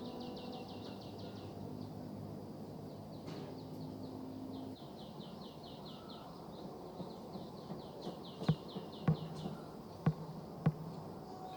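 A bird trilling: a rapid run of short, high, down-slurred notes, about ten a second, heard twice, over a steady low outdoor hum. Four sharp knocks come near the end.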